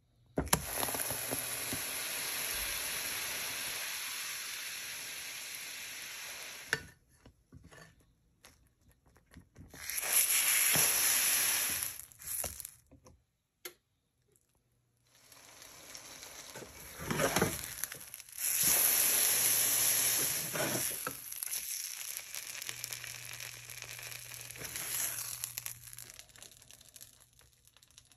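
Egg-nog French toast sizzling in a frying pan, a steady hiss heard in several separate stretches with abrupt breaks, including a short silence near the middle.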